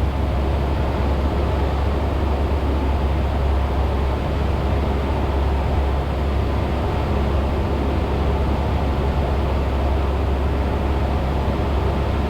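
Cessna 172's piston engine and propeller running steadily in cruise flight, an even low drone with no change in power.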